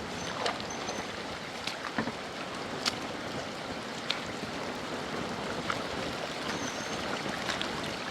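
Steady rush of water with scattered sharp ticks and drips.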